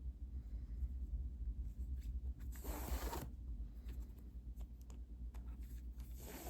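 Yarn being pulled through plastic mesh canvas while stitching: a rasping pull about halfway through and another near the end, with small clicks and taps of handling between, over a steady low hum.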